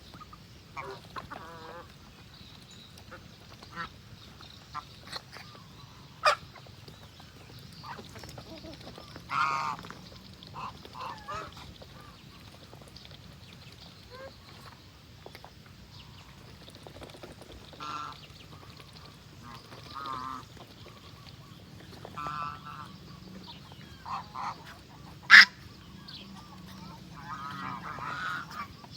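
Domestic geese and ducks calling on and off: short honks and quacks, with a few sharp clicks or knocks, the loudest about 25 seconds in.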